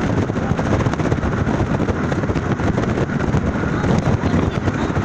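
Steady wind rumble buffeting the microphone, mixed with the running noise of a moving vehicle.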